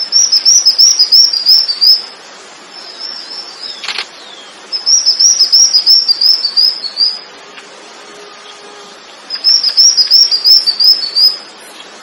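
A bird singing three bouts of quick, high chirped notes, each about two seconds long, with short pauses between them. There is a short sharp click in the first pause.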